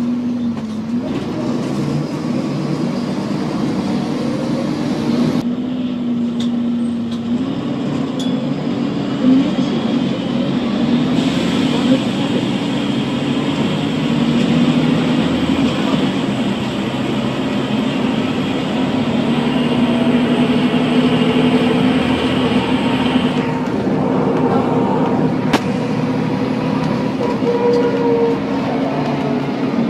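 Volvo B7TL double-decker bus under way, its 7.3-litre diesel engine and driveline running with a steady drone and whine. The pitch steps up about a second in and again after about seven seconds. The uploader puts the odd sounds down to the differential.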